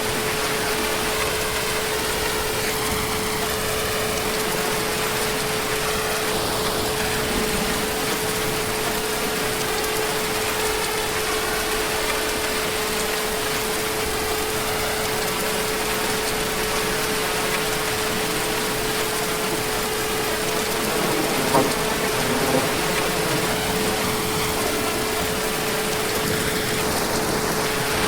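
Heavy rain falling steadily, a dense even hiss, with a steady low hum running beneath it and a couple of louder taps about two thirds of the way through.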